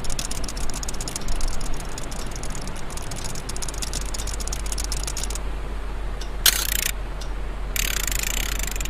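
Rapid dry clicking like a ratchet, which stops about five and a half seconds in, then a short hiss and a longer hiss near the end, over a steady low hum.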